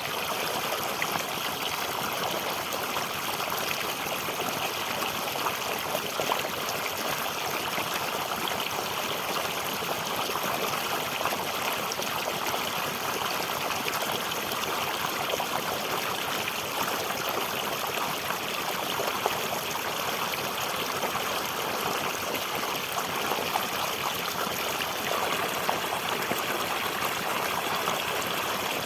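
Flowing water in a natural stream: a steady, unbroken trickling rush with no pauses.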